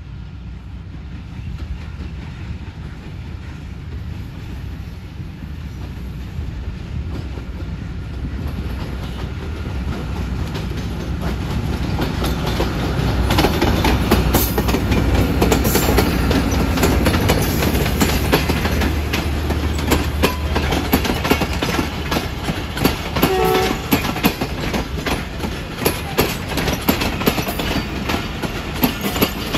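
Passenger express train rolling along the main line, growing louder over the first half as it comes close, then wheels clacking over the rail joints as the coaches go by.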